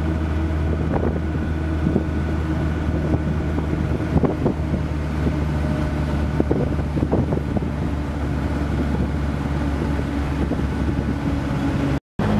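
Vehicle engine running steadily at cruise, heard from inside the vehicle, with a few short knocks or rattles. The sound cuts out briefly near the end.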